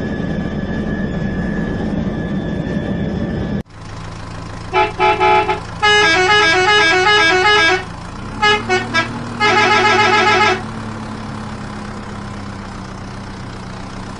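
Musical vehicle horn playing a tune of short stepped notes in several phrases, over a low steady engine hum that comes in about eight seconds in. Before it, a steady jet-like rush with a high whine cuts off suddenly about three and a half seconds in.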